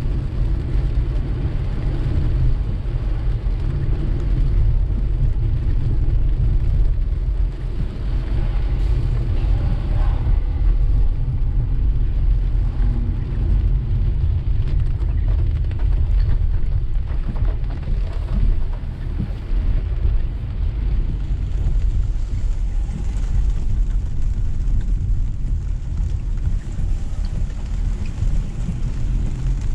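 Car driving through steady rain: a steady, deep rumble of tyres and road noise on wet pavement with the hiss of rain on the car.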